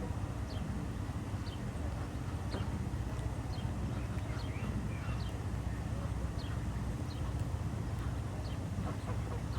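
Small birds chirping in short, high, falling notes about once a second over a steady low rumble of outdoor background noise.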